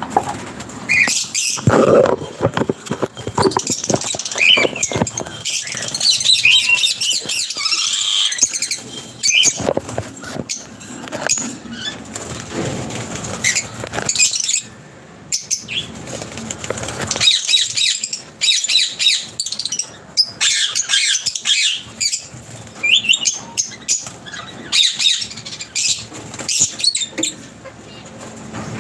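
Small birds chirping busily in many short, high calls, with repeated bursts of wing-flapping among them.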